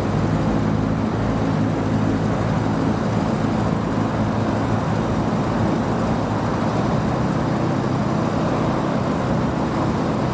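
Car engine running steadily, a low even rumble with no revving.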